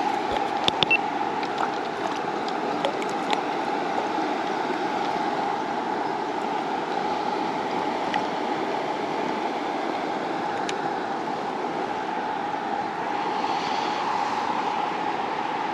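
River water flowing steadily, with a few sharp clicks about a second in.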